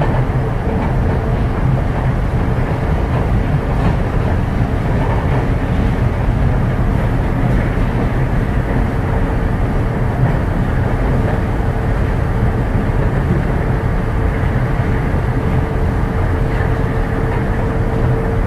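In-cabin running noise of a Yokohama Seaside Line 2000-series rubber-tyred automated guideway train at steady speed: an even rumble of tyres on the guideway with one steady tone above it.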